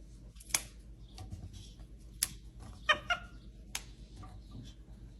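A cat making a few short, sharp sounds about a second apart, with a brief chirp-like call near the middle, over a faint low hum.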